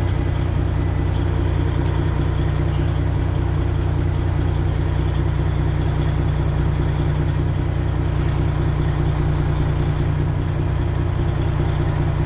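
Detroit Diesel 12.7-litre engine of a Freightliner Classic XL semi truck idling steadily as the truck is slowly maneuvered.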